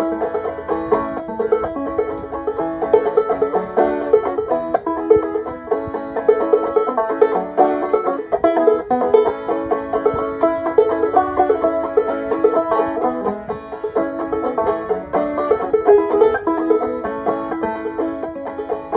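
Five-string banjo played clawhammer style in open A tuning: a steady, brisk stream of plucked, ringing notes in an old-time tune.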